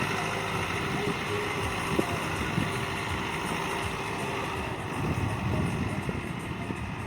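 Heavy diesel engines of earthmoving and haulage machinery running steadily, with a couple of sharp knocks about two seconds in.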